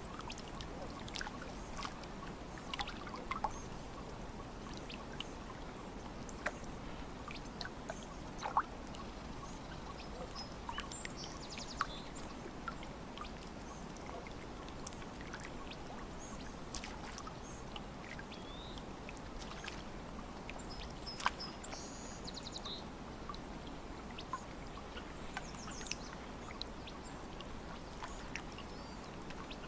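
Lake water lapping gently at the shore, a steady low wash dotted with small clicks and splashes. Birds chirp briefly a few times, about a third of the way in and again past two-thirds.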